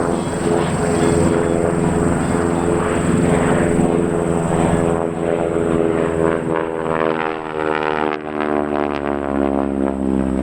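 North American T-6 Texan's Pratt & Whitney R-1340 radial engine and propeller flying past. The engine drone is steady at first, then its pitch falls in the second half as the aircraft goes by.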